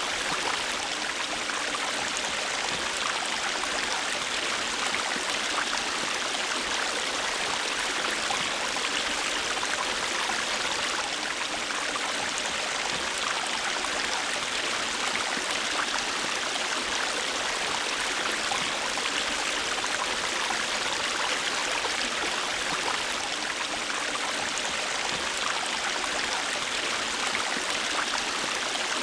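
River water flowing over stones, a steady rushing babble with fine splashing and trickling detail.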